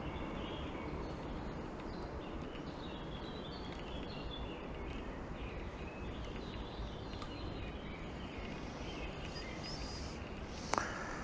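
Small birds chirping over a steady low background noise, with one sharp click near the end.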